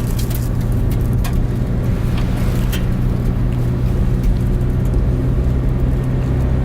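Van engine and road noise heard from inside the moving cabin: a steady low hum, with a few faint clicks in the first three seconds.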